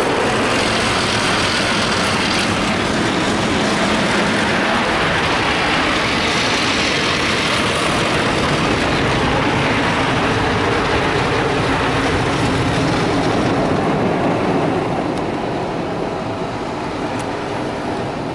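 Automatic car wash spraying water onto the car, heard from inside the cabin: a loud, steady hiss that eases off about 15 seconds in.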